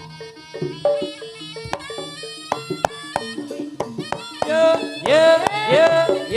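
Live jaranan ensemble music: steady pitched gamelan notes with many sharp drum strokes. About four and a half seconds in, a louder melody with sliding notes comes in over them.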